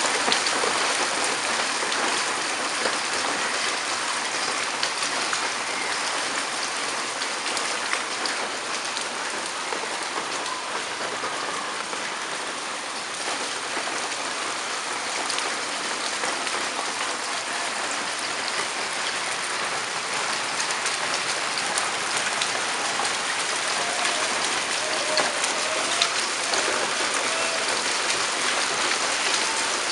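Hailstones falling and striking surfaces: a dense, steady patter of many small ticks.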